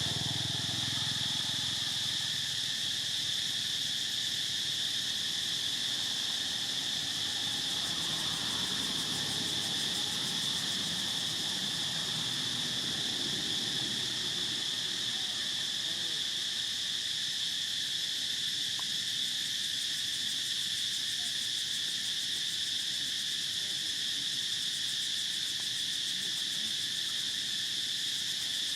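Chorus of insects such as crickets or cicadas: a continuous high-pitched buzz, steady in pitch and level.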